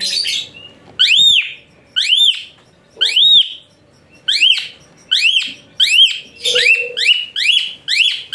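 Asian pied starling (jalak suren) giving loud, shrill whistled notes, each rising and then falling in an arch. They come about a second apart at first, then faster, about two a second, from around halfway through.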